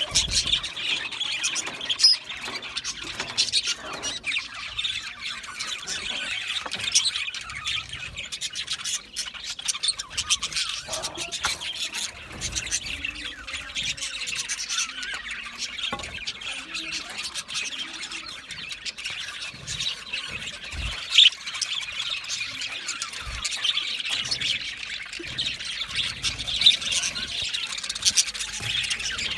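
A group of budgerigars chattering continuously, with overlapping high chirps, warbles and occasional louder squawks.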